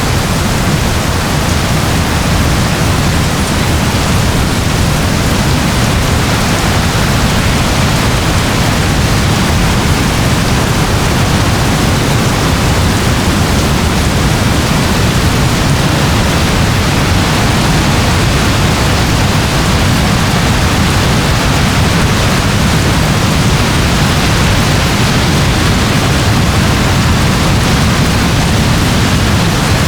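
Steady rain, an even hiss with a deep low rumble underneath, unchanging throughout.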